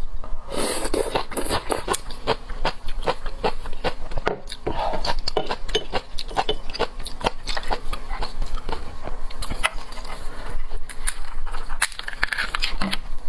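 Close-miked mouth sounds of eating seafood: chewing with many small crackling clicks and wet pops.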